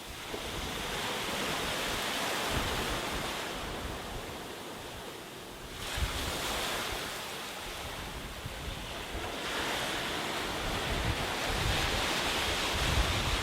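Sea waves breaking and washing up a beach: the surf comes in as a surge of hiss about every few seconds, swelling and easing, with a fresh wave at the start, about six seconds in and again near ten seconds.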